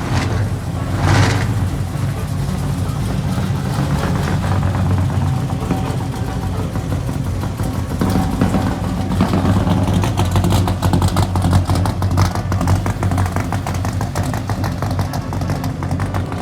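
A car engine running: a steady low rumble with a rapid train of exhaust pulses through the middle and later part.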